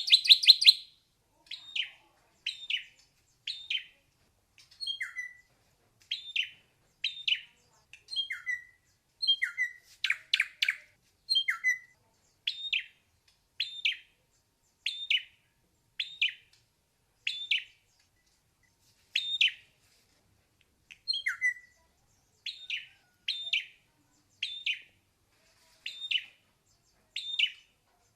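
Ashy drongo singing: a long series of short, separate notes at about one a second. Some are clear whistles that drop in pitch, others are harsher and richer, and there are a couple of brief pauses.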